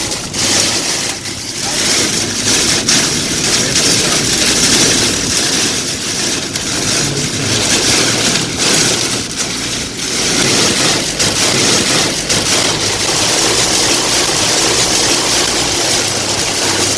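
Heavy downpour and wind of a sudden downburst beating on a car: a loud, steady hiss that swells and eases slightly, over a faint low engine hum.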